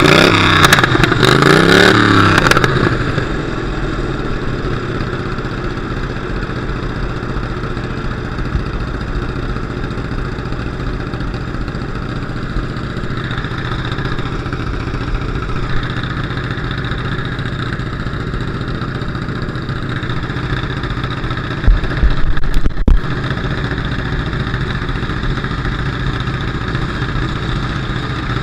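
Demolition derby car engine heard from inside the car, revved up and back down twice near the start and then running steadily at a lower level. A brief burst of heavy low thumps comes about three-quarters of the way through.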